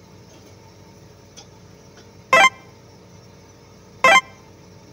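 Two short horn toots, about a second and a half apart, loud over a faint steady background.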